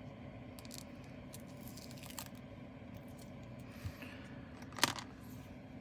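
Quiet handling of small plastic bags of diamond painting drills: faint rustling and light ticks, with one sharper click near the end, over a steady low hum.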